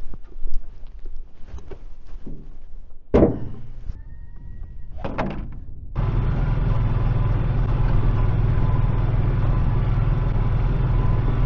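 A few knocks and thuds, then from about six seconds in a steady engine running, with a low hum.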